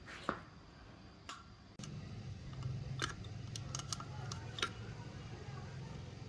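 Scattered light clicks and taps of small metal tools and parts being handled. A steady low hum comes in abruptly about two seconds in.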